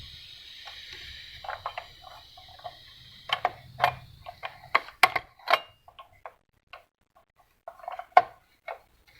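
Irregular small clicks and taps of plastic and metal parts being handled as a receipt printer is taken apart by hand, with a low hum in the first half and a sharper knock near the end.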